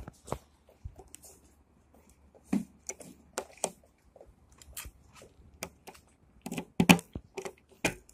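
Irregular clicks, taps and rustles of something being handled, with a cluster of louder knocks about seven seconds in and a faint low hum underneath; no engine is running.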